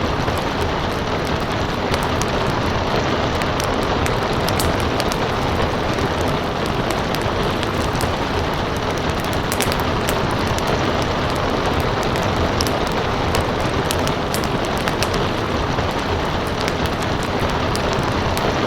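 Steady rain mixed with a crackling wood fire, with frequent sharp little pops over the constant hiss of the rain.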